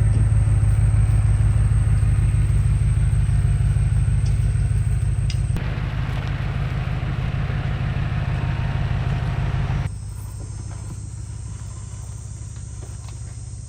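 A motor vehicle's engine running steadily with a low rumble, stepping down in level abruptly about five and a half seconds in and again about ten seconds in.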